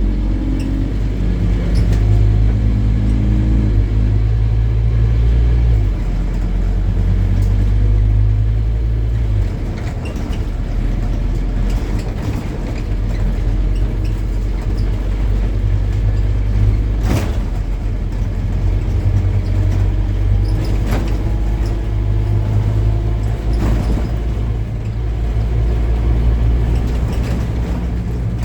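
Scania N270UD OmniCity double-decker bus's five-cylinder diesel engine running on the move: the engine note drops about six seconds in, eases off briefly near ten seconds, then pulls steadily again. A few sharp clicks or knocks come through later on.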